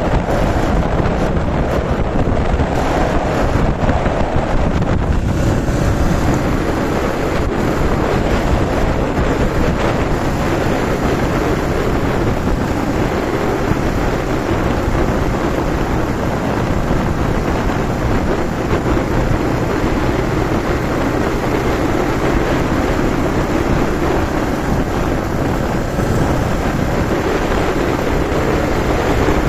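Wind buffeting the microphone while riding a Yamaha TW200 motorcycle, its air-cooled single-cylinder engine running steadily underneath.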